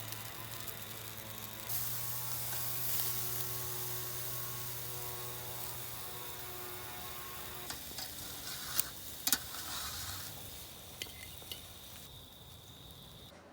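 Chicken thighs and vegetables sizzling on a charcoal grill as a steady hiss, with a faint low hum underneath. A few sharp clicks come in the second half, and the sound cuts off just before the end.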